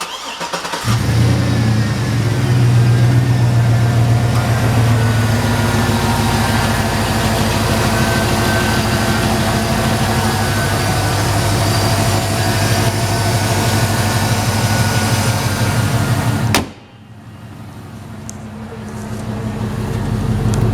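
2006 Cadillac Escalade EXT's 6.0-litre V8 with an aftermarket Magnaflow exhaust cranking briefly and catching within the first second, then running at a steady, loud idle. Near the end the sound cuts off suddenly after a click, then swells back up.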